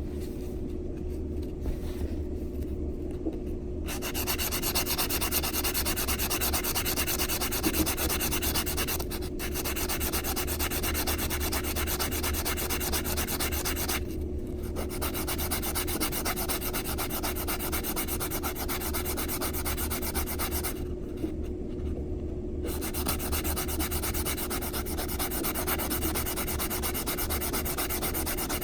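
Metal coin ring's cut edge being sanded on a nail file board: steady scratchy rubbing that starts about four seconds in and pauses briefly twice, over a steady low hum.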